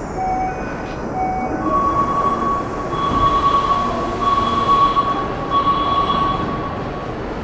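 Keikyu train pulling into an underground station platform: rumbling running noise, with a steady high squeal from the wheels and brakes from about two seconds in until near the end.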